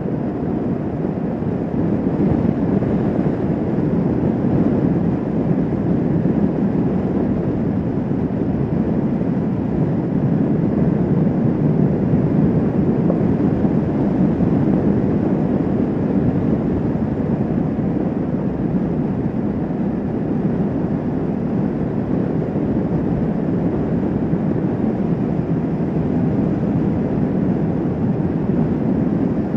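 Kawasaki Vulcan S 650 parallel-twin motorcycle cruising at a steady road speed: a constant rush of wind over the microphone mixed with engine and road noise, with no changes in speed.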